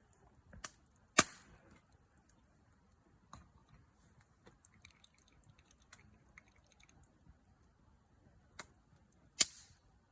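Campfire wood crackling, with two sharp pops, one about a second in and one near the end, each trailing a brief hiss, and softer snaps in between.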